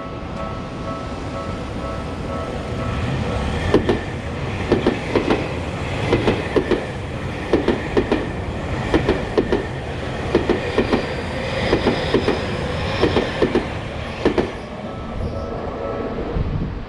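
A train passing over jointed track, its wheels striking the rail joints in paired clacks about every second and a half over a steady rumble. A steady hum of several tones comes before the clacking starts.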